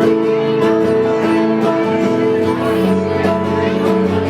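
A band playing a cover song, led by guitar, with held chords that change every half second or so; lower bass notes come in about two and a half seconds in.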